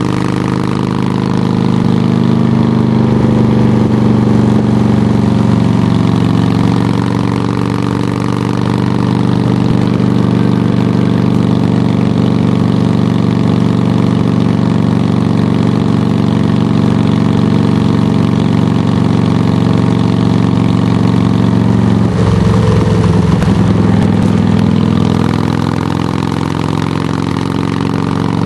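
Harley-Davidson touring motorcycle's V-twin engine idling steadily through Samson Silver Bullet mufflers, with a brief change in its note about 22 seconds in.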